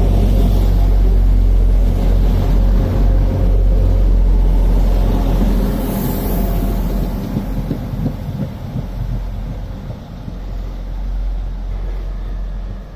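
Class 175 diesel multiple unit's engines running with a heavy low rumble, loudest for the first five seconds or so and then easing off.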